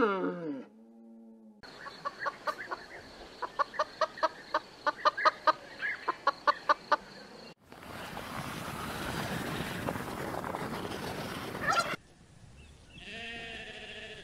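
A sequence of farm-animal sounds. A cow's moo falls away in the first second, then comes a run of short, sharp clucking calls, about two a second, for six seconds. A stretch of steady rustling noise follows while a displaying tom turkey is shown, and a sheep bleats with a wavering voice near the end.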